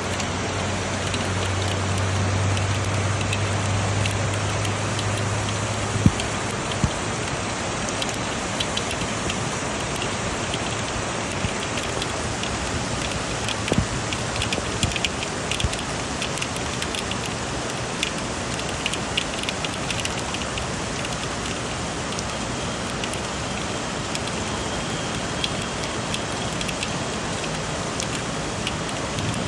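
Steady rain falling, with scattered drips and splatters. A low hum in the first six seconds cuts off suddenly.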